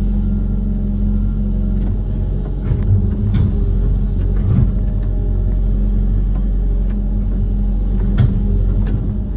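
Diesel engine of an amphibious excavator (Kobelco SK130) running steadily, with a few short knocks from the machine working.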